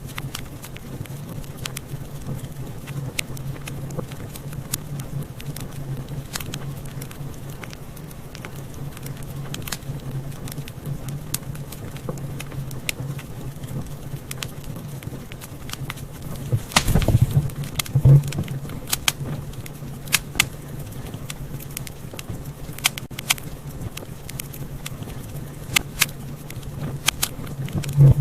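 Wood fire in a fireplace crackling, with irregular small pops and snaps over a low steady hum, and a brief flurry of louder pops about two-thirds of the way through.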